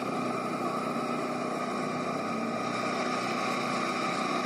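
A vehicle's motor running steadily, a constant hum with several held tones that does not change.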